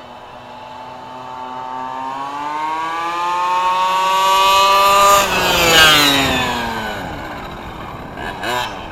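The 32cc two-stroke gas engine of a 1/5-scale Redcat RC monster truck, climbing in pitch and getting louder as the truck drives toward the listener. About five seconds in it passes by with a sharp drop in pitch, then fades away, with short throttle blips near the end.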